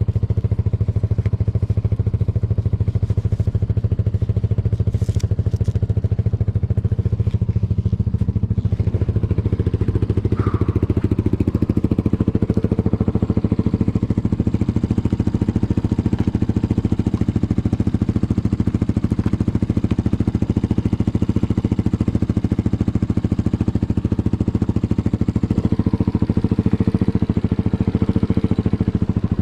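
Dirt bike engine running steadily at an even speed, with no hard revving.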